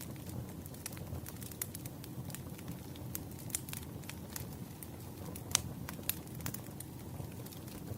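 Wood fire crackling: irregular sharp snaps and pops over a low steady rumble, the loudest snaps about five and a half and six seconds in.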